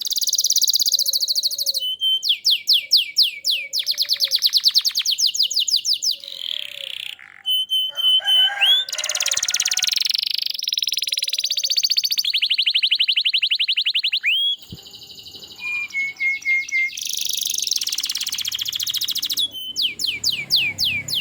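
Domestic canary singing in full song: long, fast trills of rapidly repeated notes that switch from one rolling phrase to the next every second or two, with a couple of short breaks.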